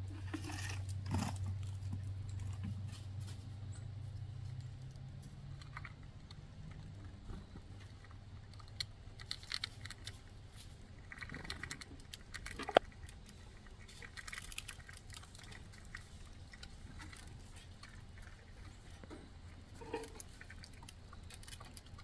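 Squirrels feeding: scattered soft scratches, patters and small clicks of claws and gnawed food, with one sharper click about 13 seconds in. A low hum fades out in the first several seconds.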